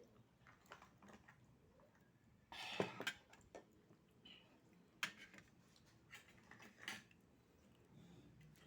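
Quiet eating at a table: a few sharp clicks and knocks of oyster shells and tableware, with a short louder scraping noise about two and a half seconds in.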